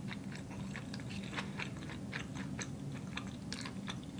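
Close-miked chewing of a mouthful of spaghetti: a quick, irregular run of soft wet mouth clicks and smacks over a low steady hum.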